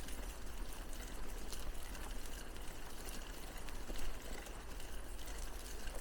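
Bicycle riding along a path: steady rolling noise with scattered small clicks and rattles over a low rumble, with a brief louder knock about four seconds in.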